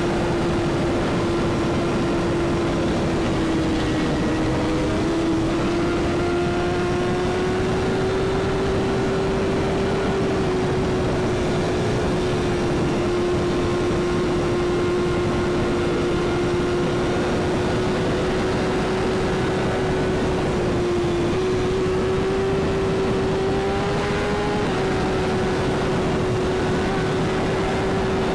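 Sport motorcycle engine held at a steady cruising speed, a constant drone whose pitch drifts only slightly up and down, under a steady rush of wind and road noise.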